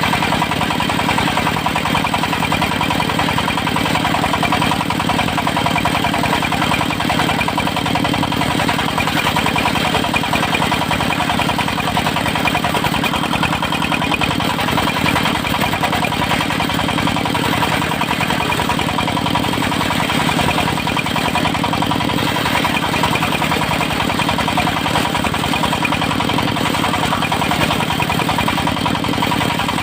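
Engine of a portable circular-saw sawmill running steadily at an even speed.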